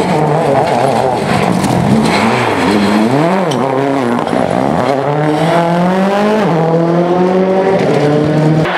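Rally car engine under hard acceleration, its pitch swooping down and up a few seconds in, then climbing steadily and holding high. It cuts off suddenly near the end.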